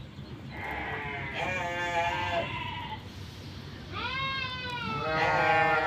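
Farm animals bleating: three drawn-out bleats, the first and last quavering.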